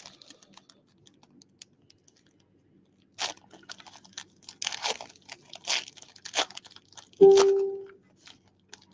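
Wrapper on a box of trading cards being torn open and crinkled, in a run of short rips and crackles. Just after seven seconds in comes the loudest sound, a brief steady hum-like tone.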